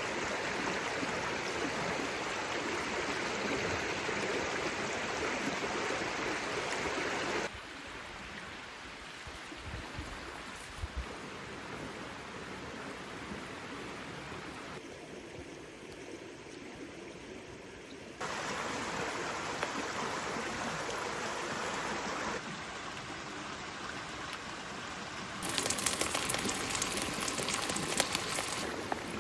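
Steady hiss of rain, its level jumping abruptly several times. Near the end a louder stretch full of sharp crackles.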